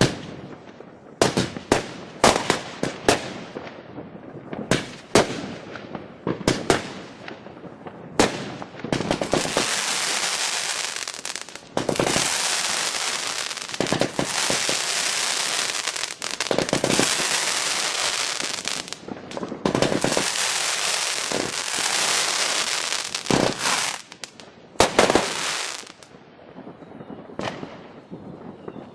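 Consumer fireworks going off: a run of sharp bangs for the first several seconds, then a dense, continuous hissing crackle for about fourteen seconds, broken twice briefly, followed by a few more loud bangs and quieter crackling near the end.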